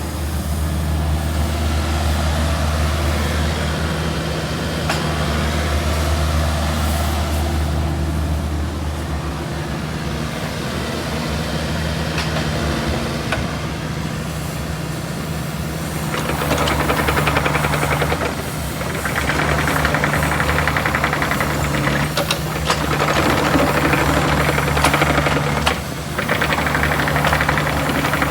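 Kubota U48-4 mini excavator's diesel engine running steadily, growing louder in several stretches over the last third.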